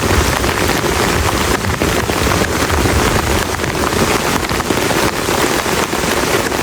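Heavy rain falling steadily in a dense, even downpour. A low rumble lies underneath in the first couple of seconds and then fades.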